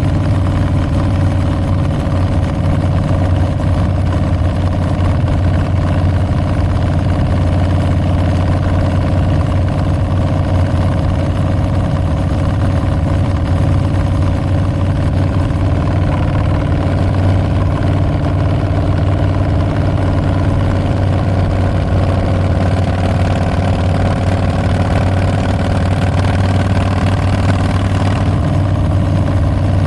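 Harley-Davidson Street Bob's 114 V-twin running steadily through Tabs Performance slip-on mufflers with Zombie Baffles, a deep exhaust note. The pitch shifts slightly about halfway through.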